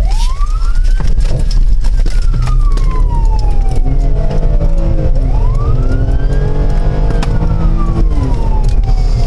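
Police car siren on wail, rising quickly and then falling slowly, twice, over heavy steady engine and road noise from a moving car.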